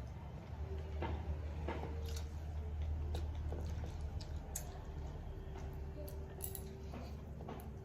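A person eating fish curry, eating quickly: wet chewing and squishing with scattered small clicks, over a steady low hum.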